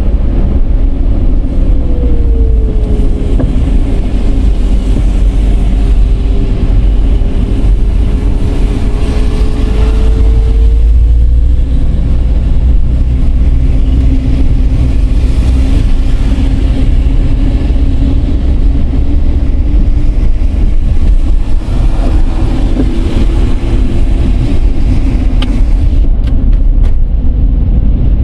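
Dodge Charger 3.5 V6 driving: a steady heavy rumble of engine and road noise. Its engine tone drops about two seconds in and climbs back about eleven seconds in.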